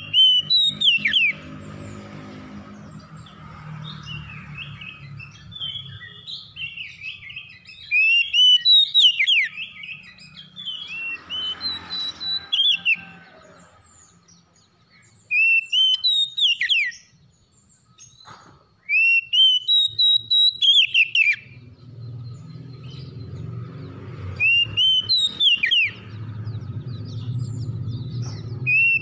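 A songbird sings in loud bursts of sharp whistled notes that sweep up and down, with brief pauses between phrases. A low hum runs under parts of the song.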